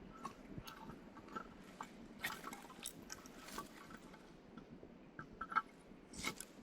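Wood fire of not fully dried firewood crackling, with irregular sharp pops and a few short hissing bursts; the sharpest pop comes about five and a half seconds in.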